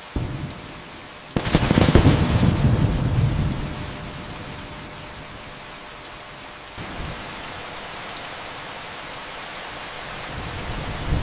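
Steady rain with thunder: a loud thunderclap about a second and a half in rumbles away over the next couple of seconds, and another rumble builds near the end.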